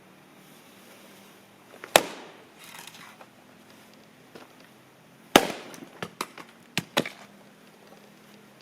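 Two loud, sharp knocks about three and a half seconds apart, the second followed by a quick run of four lighter knocks.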